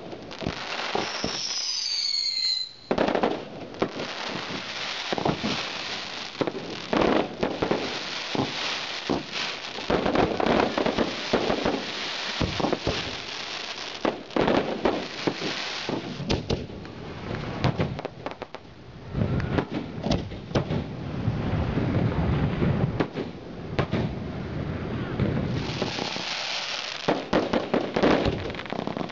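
Fireworks display: aerial shells bursting one after another in dense, rapid bangs and crackles. A whistle glides in pitch about one to two seconds in.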